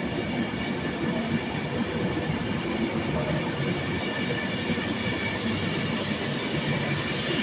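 Class 390 Pendolino electric train pulling out of the platform: a steady rumble of wheels on rail with a faint electric traction hum.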